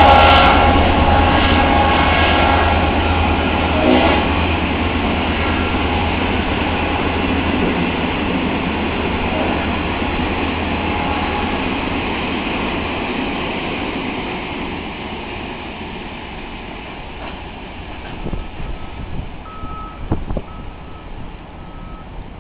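Cement freight train running past and receding: the rumble of the locomotive and wagons on the rails, loud at first, dies away steadily. Near the end, a short high beeping tone repeats several times.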